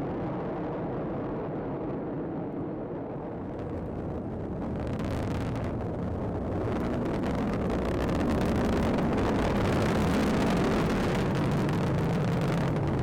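Atlas V rocket in powered ascent, its main engine and solid rocket boosters making a continuous rumbling roar with a crackle in it. It grows louder and brighter from about five seconds in.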